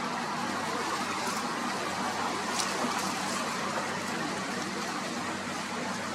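Steady rushing of strong wind and river water, with a faint low steady hum underneath.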